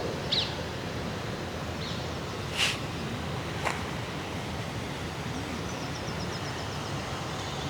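Outdoor park ambience: a steady low rumble of distant city traffic, with a few short bird chirps and a quick twittering trill in the second half. Two sharp clicks sound about a second apart near the middle.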